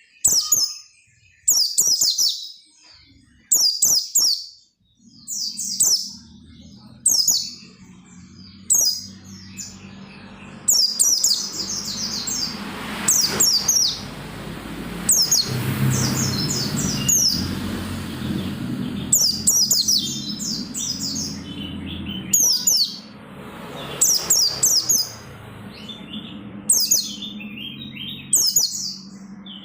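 A white-eye (pleci) singing: short, high, rapid twittering phrases repeated every second or two, over a low steady hum in the background.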